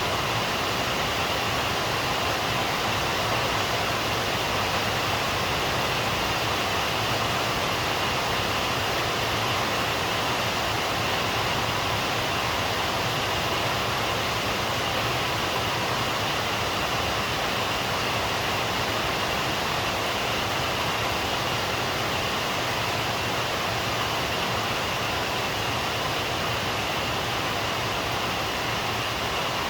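Rain falling steadily, an even hiss with no breaks and no thunder.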